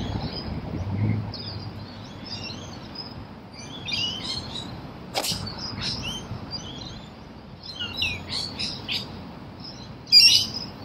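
Birds chirping and calling all around, with a louder burst of chirps near the end. A single sharp click about halfway through.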